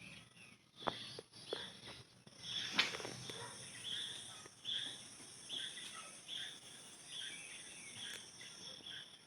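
Outdoor insect chorus: a steady high-pitched trilling, with short chirping calls repeating about once or twice a second. A few sharp clicks sound in the first three seconds.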